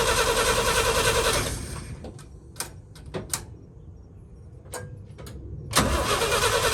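1966 International Harvester BG 241 six-cylinder engine turning over and running rough, a long-stored engine trying to start. It cuts out about a second and a half in, leaving a few light clicks, then fires up again near the end.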